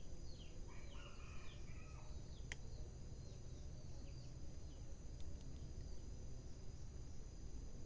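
Rural outdoor ambience: birds chirping, with several quick falling chirps at the start and a longer call about a second in, over a steady high insect drone and a low rumble. A single sharp click comes about two and a half seconds in.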